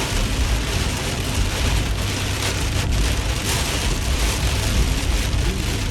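Heavy rain pelting a moving car, heard from inside the cabin, over a steady low rumble of tyres and engine on the highway.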